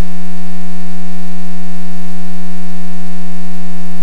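Loud, steady electrical buzz with a long string of overtones in the aircraft's headset and radio audio feed.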